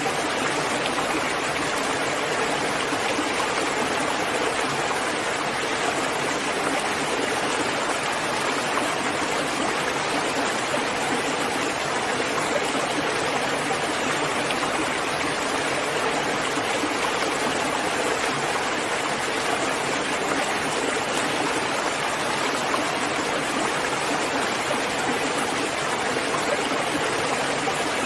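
Steady, dense rainfall: an even hiss with no separate drops standing out and no change in level.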